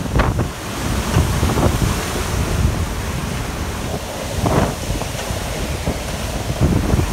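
Hurricane-force wind roaring in gusts and buffeting the microphone, with swells of louder noise about a second and a half in and again at about four and a half seconds.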